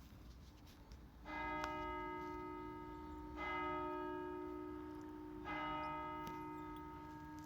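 A bell struck three times, about two seconds apart, each stroke ringing on and slowly fading.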